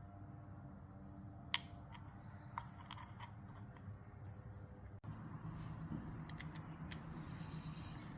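A few light clicks and taps of small metal parts being handled while the motorcycle's oil filter cap, with its spring and O-ring, is fitted back onto the engine.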